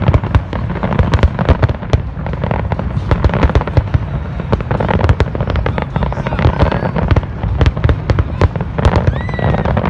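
Fireworks display going off in a rapid, continuous barrage of loud bangs and crackles, with a deep rumble underneath.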